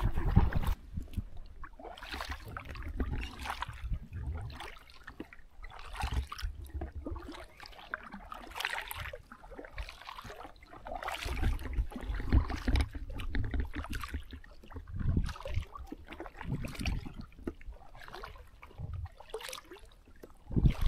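Paddles dipping into river water, splashing and trickling in uneven strokes every second or two, over a low rumble.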